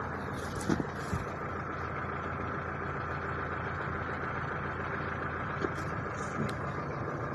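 A machine running steadily with an even, engine-like hum, with a few faint clicks in the first second or so.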